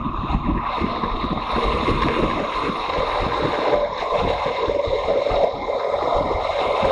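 Motorcycle running at road speed, a steady engine hum with wind buffeting the microphone.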